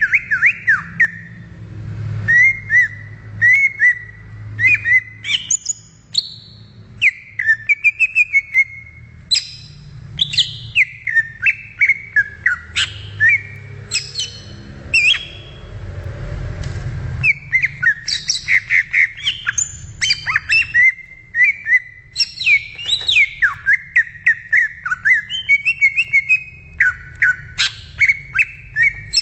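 Leafbird (cucak ijo) singing a fast, varied run of chirps, whistled notes and sweeping calls with almost no breaks, pausing briefly about halfway through.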